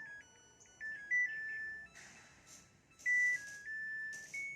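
Samsung top-load washing machine's buzzer playing its end-of-cycle melody, a short tune of single pure tones stepping up and down in pitch, in two phrases with a brief pause between. It signals that the wash is finished.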